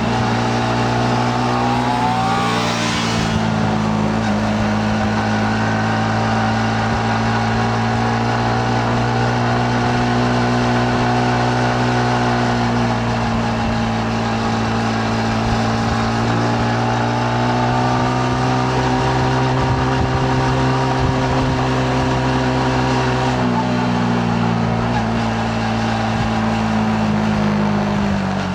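Yamaha MT-15's single-cylinder engine running under way at steady revs, its note rising and easing gently. About two-thirds of the way through the pitch steps down, and near the end it falls away as the revs drop.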